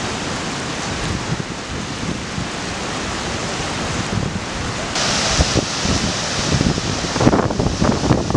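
The River Esk in flood: a steady, loud rush of fast-moving water. Wind buffets the microphone in gusts, growing heavier toward the end.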